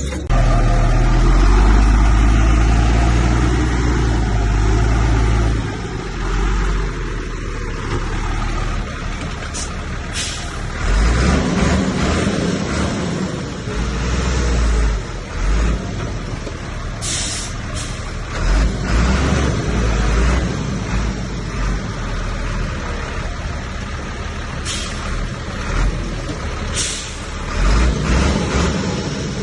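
Heavy diesel engines of a bulldozer and dump trucks working, a deep steady rumble that is loudest for the first six seconds and then rises and falls with the load. Several short hisses cut in over it.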